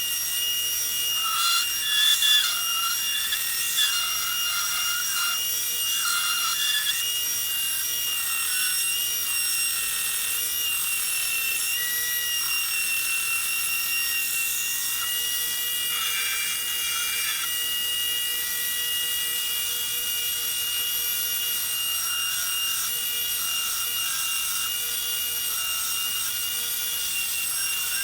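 2x72 belt grinder running steadily with a coarse belt, rough-shaping a knife handle; the grinding changes in tone as the work is pressed against the belt during the first several seconds and again briefly about two-thirds of the way through.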